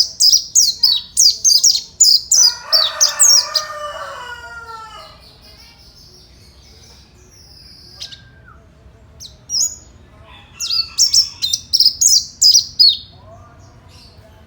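Mountain white-eye (pleci monty) singing: a rapid, very high run of chirped notes, then a stretch of lower sliding notes, a few scattered single calls, and a second fast high run about ten seconds in.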